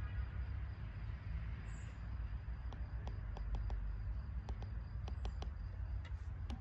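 Open-air ambience: a steady low rumble, like wind on the microphone, with scattered faint clicks and taps.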